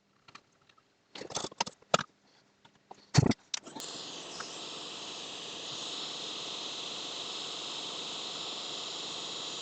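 A few light clicks and taps, then about four seconds in a hot air rework station starts blowing with a steady hiss, reflowing the solder under a surface-mount chip.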